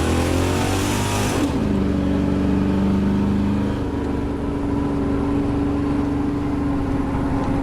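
1989 Chevy truck's 30-over 350 small-block V8 with a big cam and Hedman headers, accelerating with rising revs, then dropping in pitch as the 700R4 automatic upshifts about a second and a half in. It holds steady for a couple of seconds, then eases to a lower steady cruise.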